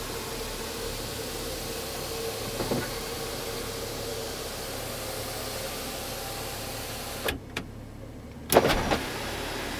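Electric motor of a BMW X5's panoramic sunroof running with a steady hum as the sunshade retracts, stopping with a click about three seconds in. Near the end come a few sharp clunks as the glass panel starts to open.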